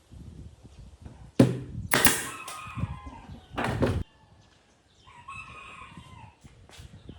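Several sharp knocks, the loudest about one and a half seconds in and again near four seconds. Between them comes a drawn-out animal call that falls in pitch, and fainter calls follow near the end.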